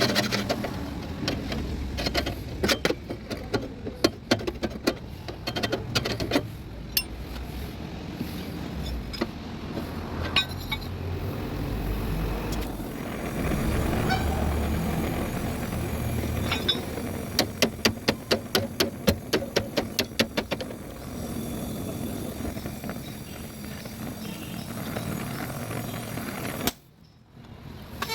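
Irregular sharp knocks and taps over a low rumble, with a quick even run of strikes about two-thirds of the way through.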